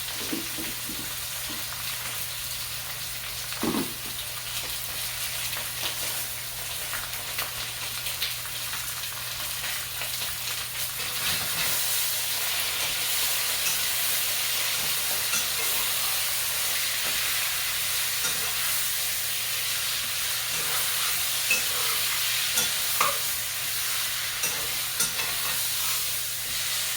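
Seasoned chicken sizzling as it browns in a hot pot of curry chicken: a steady frying hiss with a few light knocks, getting somewhat louder about a third of the way through.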